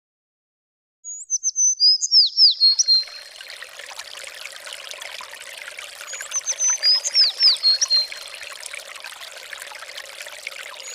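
A songbird singing short phrases of clear, high whistles with quick downward slurs, twice, over the steady rush of a flowing stream. Both start about a second in, after silence.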